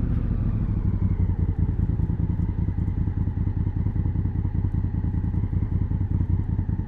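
Honda Africa Twin CRF1000L's parallel-twin engine running steadily at low revs through its stock exhaust, with an even, pulsing beat.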